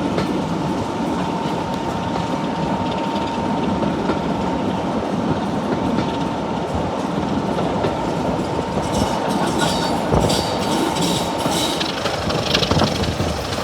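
Train running on the rails with a steady rumble, clickety-clack and a steady whine. From about nine seconds in a high-pitched squeal of wheels on track joins it as the train comes into a station.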